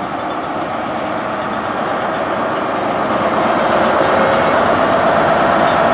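Class 43 HST power car diesel engine running, growing steadily louder, with a humming tone that strengthens toward the end.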